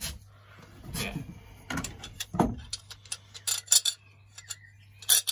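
Small metallic clicks and taps from plumbing pipework and fittings being handled, coming thick and fast about three to four seconds in, with a louder clatter near the end.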